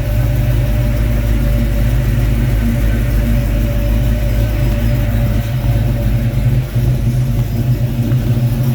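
The engine of a 1941 Chevrolet pickup idling steadily with an even, unchanging hum.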